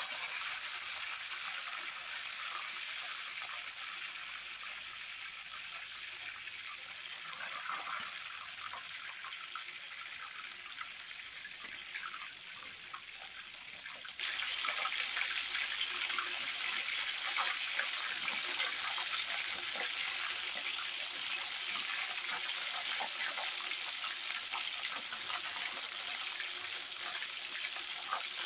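Cauliflower florets sizzling and crackling as they fry in hot oil. The sizzle suddenly gets louder about halfway through.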